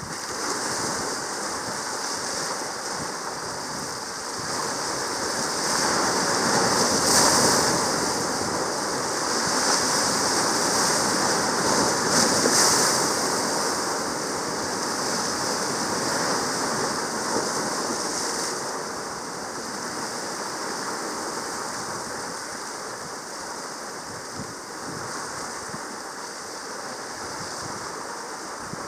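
Sea water washing in a steady rush, swelling twice in the first half and then easing off.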